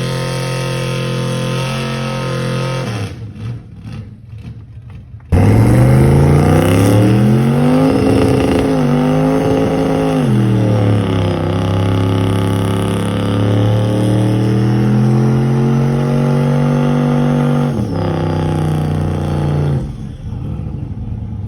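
Truck engine running steadily, then after a brief quieter gap it comes in suddenly loud and revs up hard, climbing in pitch. It dips once, is held at high revs for several seconds as in a burnout, and drops away near the end.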